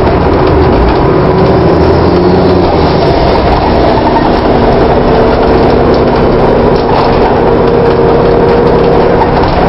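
VDL DB250 double-decker bus running, with a steady whining tone that comes in about four seconds in and cuts off near the end. The bus has an unusual sound that the uploader finds stranger than on others of its type.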